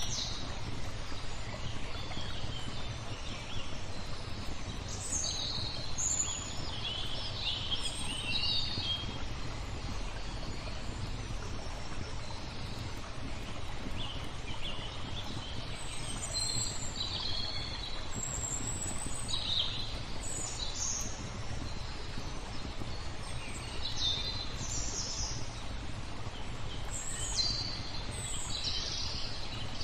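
Small songbirds chirping and trilling in short, scattered phrases over a steady low rushing background, like flowing water.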